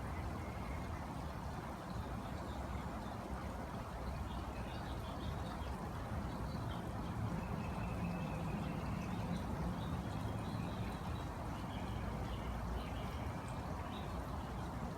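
Steady low background rumble outdoors, with faint, short, high bird chirps coming and going from about four seconds in.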